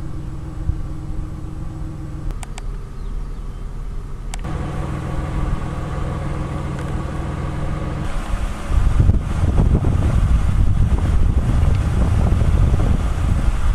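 A motor vehicle running, with a steady low engine hum and road rumble. About two-thirds of the way through it turns into a louder, rougher rumble that sounds like wind buffeting the microphone.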